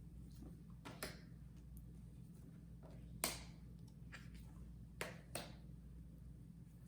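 Large letter cards being handled: a few short taps and clicks, the loudest about three seconds in, over a faint steady hum.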